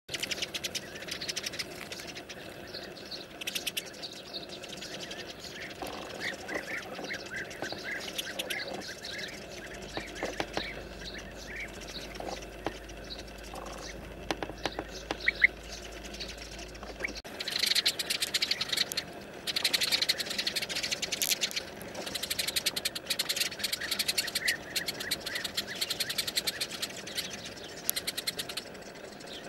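A flock of sparrows chirping and chattering, many short calls overlapping: the birds' alarm at a snake near their nest holes. About halfway through, the calling becomes much denser and louder.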